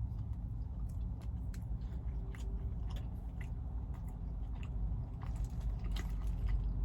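A person chewing and biting fast food close to the microphone: scattered short mouth clicks and bites over a steady low hum.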